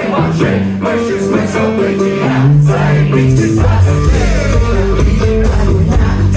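Live rock band playing an instrumental passage, with electric guitar melody, bass and drums. The low end comes in heavier about two and a half seconds in.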